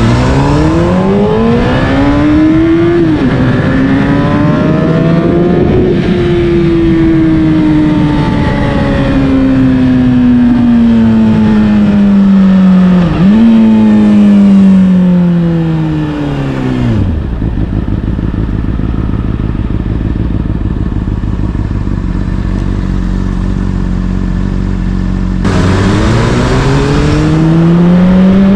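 Honda CBR600RR inline-four through an Akrapovic exhaust. The revs rise, dip at a gear change and rise again, then fall off slowly with one brief blip. About seventeen seconds in it drops to a steady idle, and near the end the revs climb again as it pulls away.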